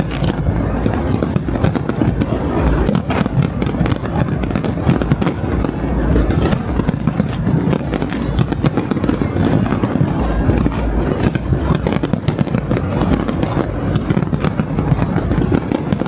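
Fireworks display going off without a break: dense overlapping bangs, deep booms and crackles, with music playing underneath.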